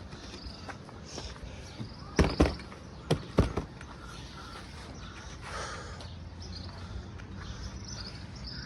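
Several sharp knocks and thumps in two quick groups, about two and three seconds in, over a steady outdoor background with insects chirping.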